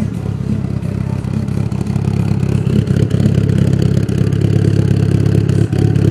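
Mitsubishi Lancer Evolution engine with stage 5 camshafts, running steadily through a new aftermarket exhaust, with no revving.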